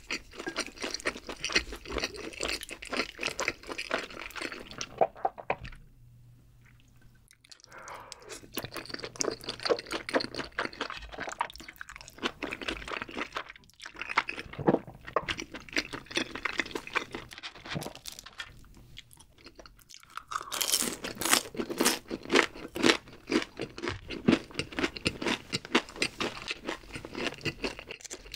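Close-miked chewing with wet crunching, broken by short pauses. About twenty seconds in comes a louder, denser spell of crisp crunching on battered fried chicken feet.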